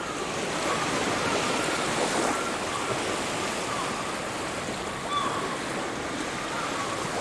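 Sea surf washing onto a beach, a steady rush of breaking waves, with a few faint short cries over it.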